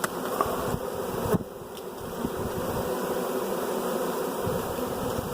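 Honey bee swarm buzzing: a dense, steady hum of many bees in flight around the clustering swarm, with a few light clicks early on.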